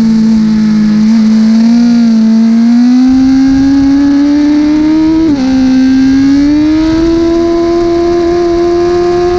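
1000 cc superbike engine running hard under acceleration, its pitch climbing slowly. About five seconds in the note dips sharply for an instant, like an upshift, then climbs again.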